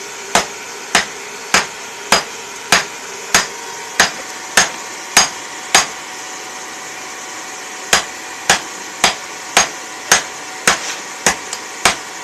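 Blacksmith's hammer striking steel in a steady rhythm, a blow a little under every second, with a pause of about two seconds near the middle before the blows resume.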